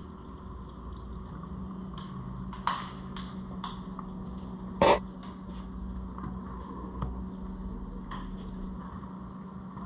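Scattered light clicks and knocks of parts and tools being handled while a new oil filter is fitted to an ATV engine, the loudest knock about five seconds in, over a steady low hum.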